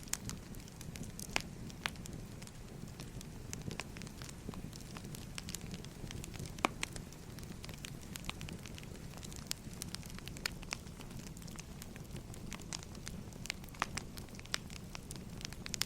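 Wood fire burning: irregular crackles and sharp pops of splitting firewood over a steady low rumble of flame.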